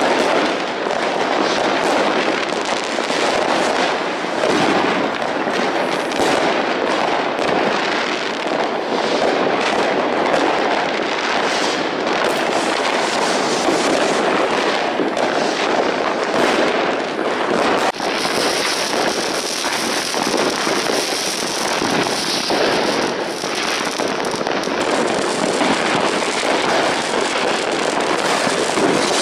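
Many fireworks and firecrackers going off together: a dense, unbroken crackle of bangs and pops with no pause.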